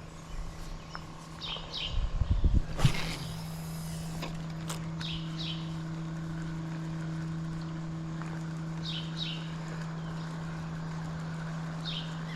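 Birds chirping in short paired calls every few seconds over a steady low hum that sets in about three seconds in, after a brief burst of rustling and clatter.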